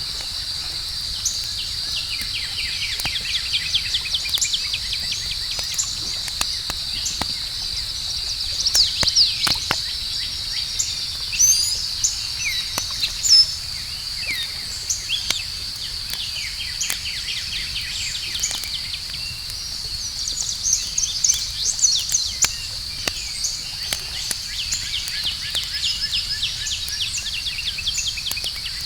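Outdoor campfire crackling, with scattered sharp pops, under a steady high-pitched chorus of night insects and many quick chirps.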